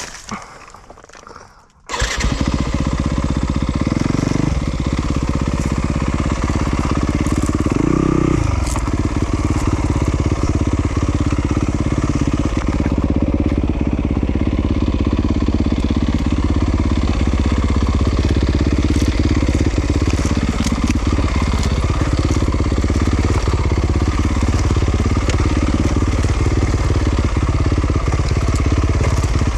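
Yamaha YZ250FX's 250cc single-cylinder four-stroke engine comes in suddenly about two seconds in, then runs at low revs under steady throttle. It revs up briefly a couple of times, with a sharp blip about eight seconds in.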